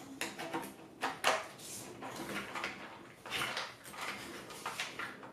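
Plastic vacuum hose and extension wands being handled and fitted together: a few light plastic knocks and clicks over soft handling noise.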